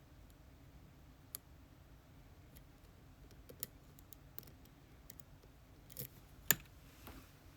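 Lock pick and tension wrench working an ASSA Twin Exclusive lock, giving scattered, sharp little clicks every second or two. The loudest click comes about six and a half seconds in.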